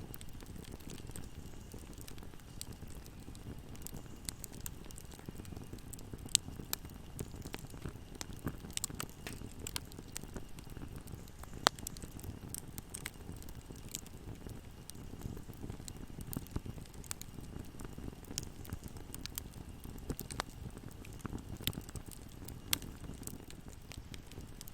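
Wood fire burning in a fireplace: a steady low rumble of flames with scattered sharp crackles and pops, the loudest pop about 12 seconds in.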